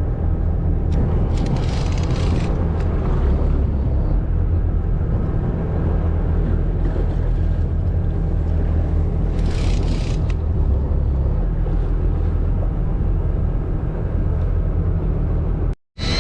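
Fishing boat's engine running steadily with a low hum and rushing noise, with two brief hissing washes about a second in and near the middle. The sound cuts off abruptly just before the end.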